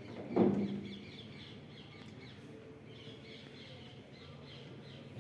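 Small birds chirping over and over in short high notes, with a single knock that rings briefly about half a second in.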